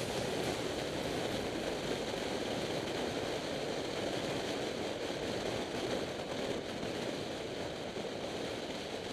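Steady rush of wind and road noise from a moving motorcycle, even and unbroken, with no clear engine note.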